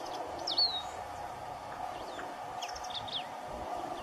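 Canário-do-campo, a Brazilian grassland finch, singing in the open: short sharp chirps and whistled notes. One swooping note comes about half a second in, and a quick run of notes follows around three seconds in, over a steady background hum.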